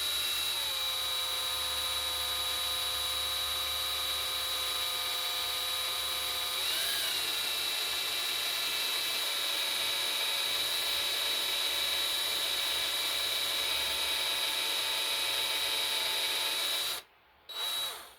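Power drill running steadily as it drills out a broken bolt in a cast-iron engine block. Its whine dips in pitch briefly twice under load. Near the end it stops, starts for a moment and stops again.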